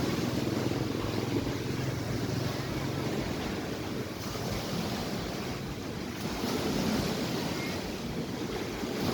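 Sea waves washing onto the shore, the surf swelling and easing, with wind buffeting the microphone.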